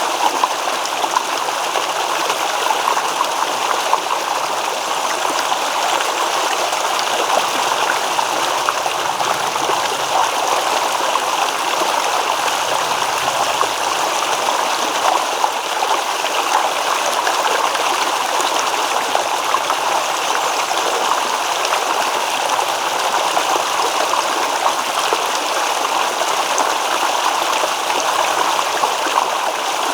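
Stream water babbling and rippling over stones, a steady, even rush.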